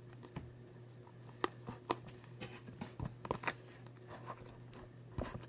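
Slime being stirred and squished in a bowl: a string of irregular small sticky clicks and squelches, over a faint steady hum.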